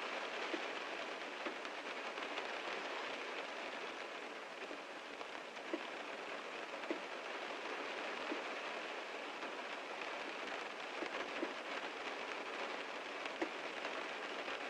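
Heavy rain falling on a car: a steady hiss of rain with scattered louder drops tapping on the body.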